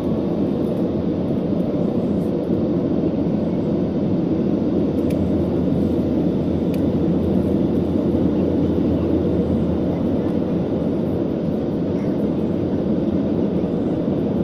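Airplane noise: a steady, unbroken low rumble of engines and rushing air.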